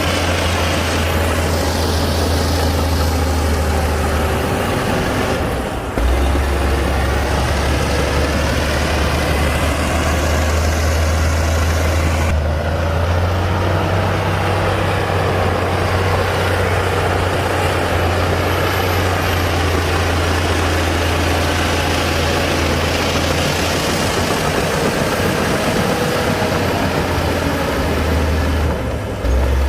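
Heavy diesel engine of a Komatsu D60-P bulldozer running, a steady low drone with short dips about six seconds in and near the end.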